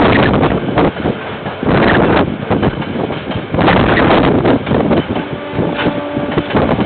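Wind buffeting an outdoor security camera's microphone in loud, uneven gusts, with a brief steady chord of tones for about a second, around five and a half seconds in.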